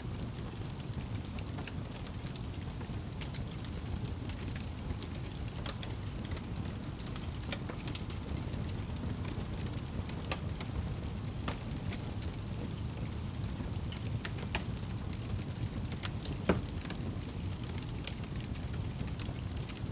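Crackling fire with scattered sharp pops, one louder pop late on, over a steady hiss and rumble of rain.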